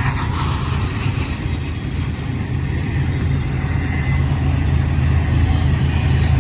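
Double-stack intermodal freight train passing close by: container cars rolling on the rails with a steady low rumble that grows a little louder near the end.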